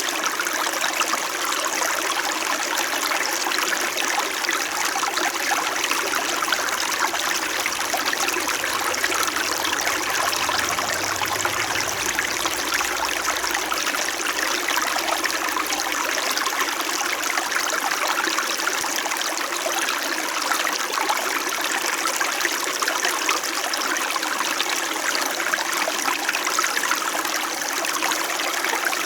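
Small shallow stream flowing and trickling over stones, a steady, unchanging babble.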